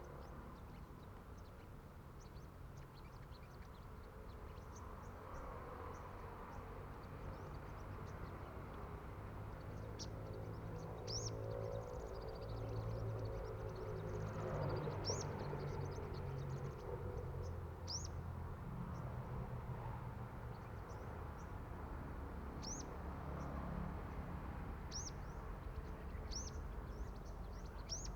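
Sunbird chirps: about a dozen short, sharp, high-pitched call notes, scattered singly every second or few seconds, over a steady low rumble.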